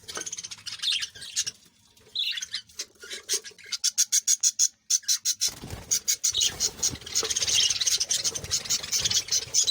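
Small birds calling close by. Separate chirps come first, then a fast run of repeated high notes, then several birds chattering together and overlapping.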